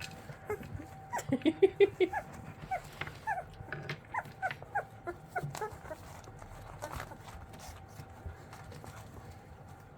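Very young English Springer Spaniel puppies, about two and a half weeks old, squeaking and whimpering in a string of short, high yips that drop in pitch, loudest about two seconds in and thinning out after about six seconds.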